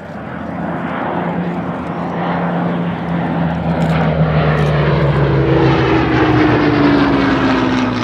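Rolls-Royce Merlin V12 engine of a Hawker Hurricane fighter flying past. The engine note grows louder, peaks about five to seven seconds in, and its pitch slides down as the aircraft goes by.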